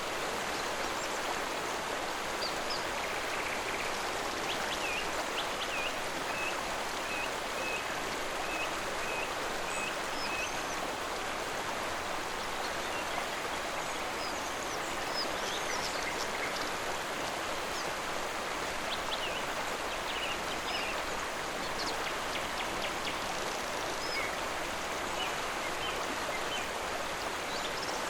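Steady flowing water of a stream, running evenly without change, with birds chirping faintly over it in short high notes, including one run of quickly repeated chirps.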